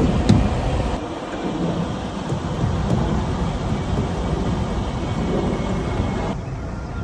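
Steady low rumble and road noise of a moving vehicle, with a few knocks at the start and an abrupt change in the noise about a second in and again near the end.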